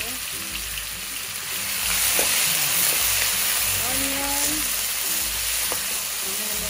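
Chopped onions sizzling in hot oil with whole spices, stirred with a wooden spoon in a stainless steel wok: a steady frying hiss that swells about two seconds in and eases near the end.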